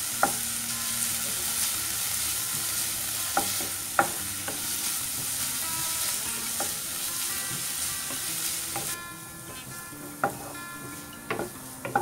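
Chopped ginger sizzling in hot coconut oil in a non-stick pan, stirred with a wooden spatula that knocks against the pan now and then. The ginger is being fried until it changes colour. The sizzle drops noticeably about nine seconds in.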